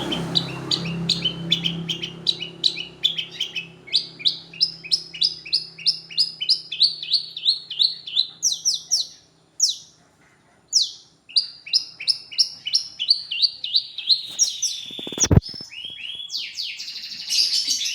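Long-tailed shrike (pentet) singing: a fast string of short, high chirping notes, about three a second, with a brief pause midway. A single sharp knock, the loudest sound, comes about three seconds before the end.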